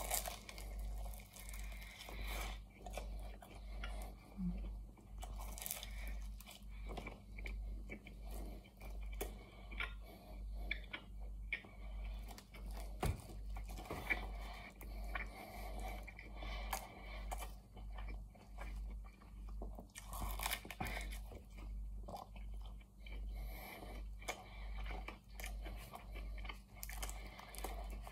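Close-up biting and chewing of a chicken pie's baked pastry crust: crisp crunches and crackles over a steady chewing rhythm.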